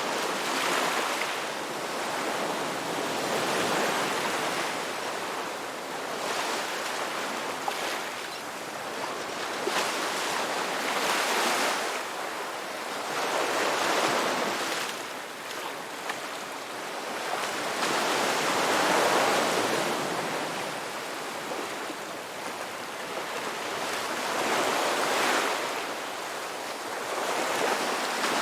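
Ocean waves breaking on a beach, a steady wash of surf that swells and ebbs with each wave every few seconds.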